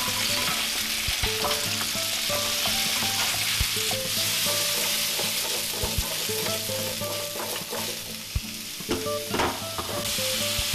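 Butternut squash slices sizzling in hot olive oil in a frying pan as they are stirred with a spoon, with a few light knocks of the spoon against the pan.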